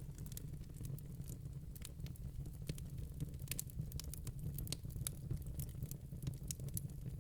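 Wood fire burning in a fireplace: a steady low rumble of the flames with frequent small, irregular crackles and pops from the burning wood.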